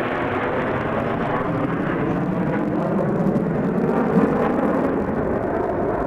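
Aircraft engine noise from an air show flight: a steady, loud rush that swells slightly about four seconds in.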